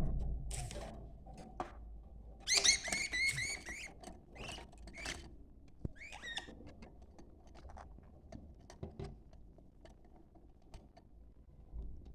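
Budgerigars chirping and chattering in short bursts, a busy run of quick chirps a few seconds in and another briefly about halfway, with scattered small clicks between.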